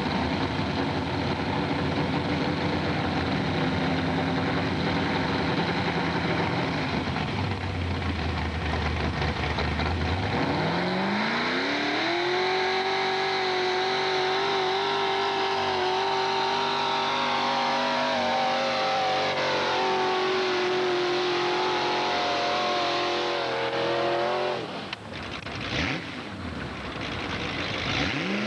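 Mini modified pulling tractor's engine running at lower revs, then revving up about ten seconds in and held at high revs for around twelve seconds during the pull. Near the end the revs drop off sharply, then climb again.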